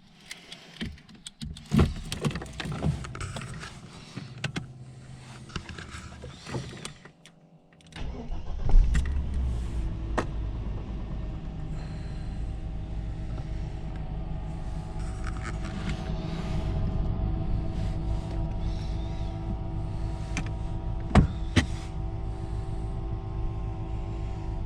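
1993 Mercedes-Benz E320's 3.2-litre inline-six starting from cold: after a few seconds of scattered clicks and knocks, the engine catches about eight seconds in with a brief flare, then settles into a steady cold idle. Two sharp clicks come near the end.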